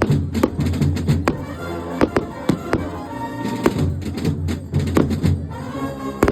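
Carnival band playing a pas de charge march: sustained wind-instrument notes over heavy drumming, with sharp bangs every half second or so.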